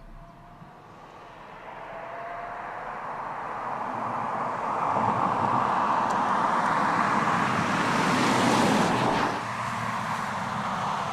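A car driving, its engine and road noise growing steadily louder over several seconds, then dropping off abruptly about nine seconds in.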